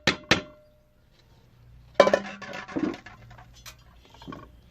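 Metal basin and cast-iron cauldron clinking as washed rice is tipped into the pot. There are a few ringing clinks at first, then a loud clatter about two seconds in, followed by smaller knocks.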